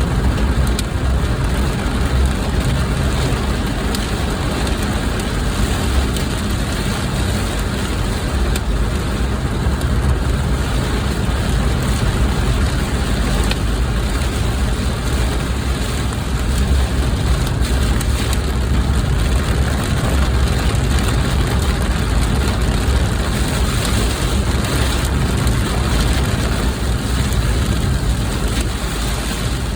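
Heavy rain falling on a car, over a steady low rumble of the car's engine and road noise, with a few faint clicks of drops striking.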